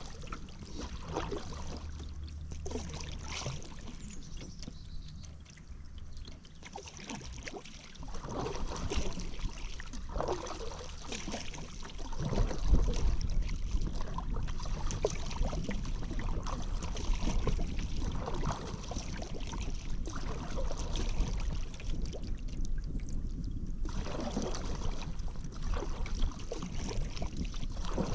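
Paddle strokes in river water, with water splashing and trickling off the paddle blade in an uneven rhythm. A low rumble joins in about halfway through and stays.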